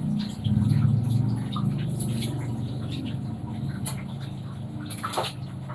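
Panasonic washing machine running: a steady low hum with water splashing and dripping inside the drum.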